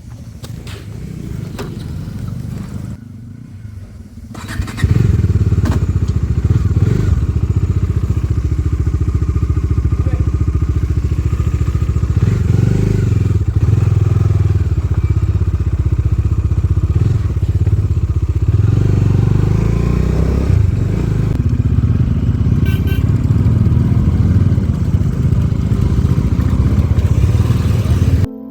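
Motorcycle engine running under way on the road, a steady low rumble that gets much louder about five seconds in.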